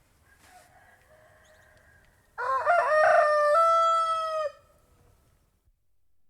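Domestic roosters crowing: a faint, drawn-out crow in the background, then one loud crow lasting about two seconds that begins a little over two seconds in and ends on a long held note.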